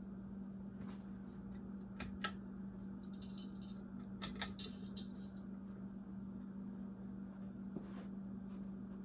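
1990 Casablanca Lady Delta ceiling fan running on low speed with a steady motor hum, its bearings freshly oiled. A couple of light metallic clicks come about two seconds in, and a short run of clicks and jingles between about four and five seconds.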